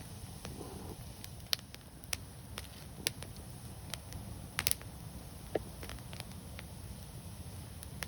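Wood fire crackling: scattered sharp pops and snaps at irregular intervals over a steady low rumble, with a quick cluster of pops about halfway through.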